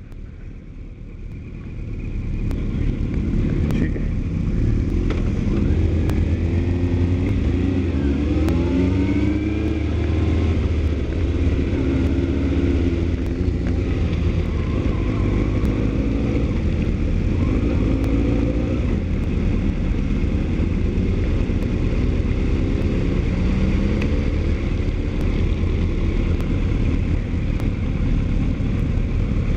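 A motor vehicle engine running close by, building up over the first couple of seconds, then holding a steady low rumble with its pitch rising and falling as it is revved.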